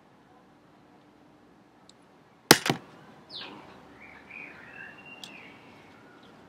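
Two sharp clicks in quick succession about two and a half seconds in, the loudest sound here. Then a bird calls: a falling note followed by several wavering higher chirps.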